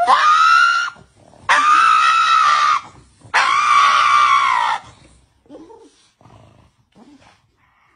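Pug screaming: three long, high-pitched cries, each rising then falling, about half a second apart, followed by a few faint short sounds.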